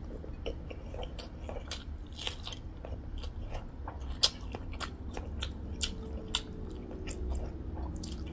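Close-miked eating sounds: wet chewing and mouth clicks with the lips closed, along with fingers squishing rice and curry on a plate. The clicks come unevenly throughout, one sharper than the rest about four seconds in.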